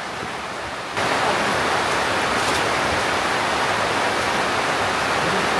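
Steady rushing noise of water, jumping abruptly louder about a second in and then holding even.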